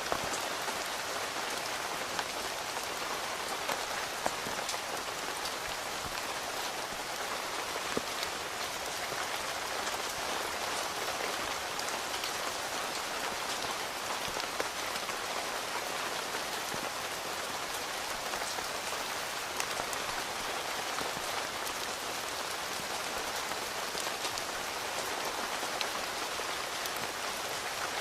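Steady rain falling on a tent, an even patter with scattered louder single drops ticking on the fabric.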